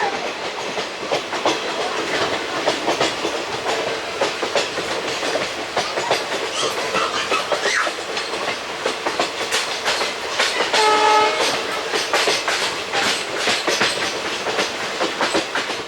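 Moving passenger train with ICF coaches: wheels running over the rails with a steady rattle and many quick clicks at the rail joints. A short horn note sounds about eleven seconds in.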